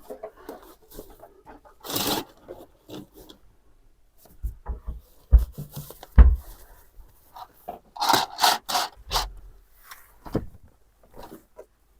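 Irregular handling noises: short scrapes and rubs, with two heavy thumps around the middle and a cluster of louder scrapes about two-thirds of the way through.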